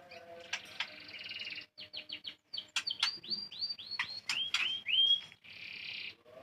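White-rumped shama calling: a buzzy rasp, a quick run of short chips, then a string of clear whistled notes that slide down and then up in pitch, ending with another buzzy rasp.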